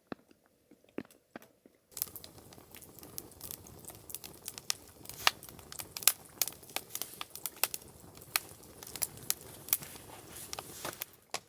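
Wood campfire burning, crackling with many sharp pops over a steady hiss that starts suddenly about two seconds in.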